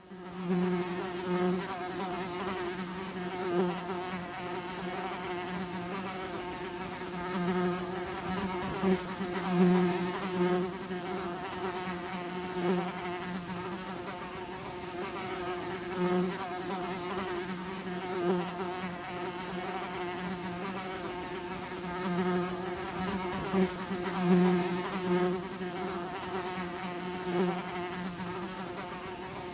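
A swarm of bees buzzing: a steady, many-winged hum that swells louder every few seconds as bees fly close.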